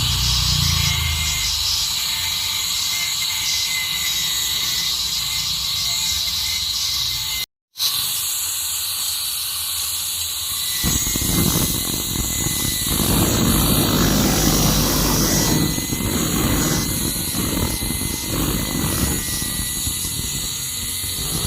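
Gas torch flame hissing steadily. It cuts out briefly about 7.5 s in, and a heavier rumbling joins it from about 11 s on.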